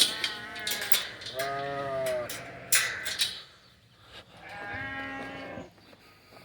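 St Croix hair sheep bleating: one loud drawn-out bleat about a second in and another about three seconds later, with a fainter one at the start. Sharp clicks and rustles come in the first half.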